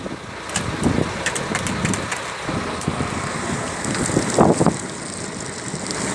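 Fishing boat's engine running steadily, with sharp clicks and knocks over it during the first few seconds.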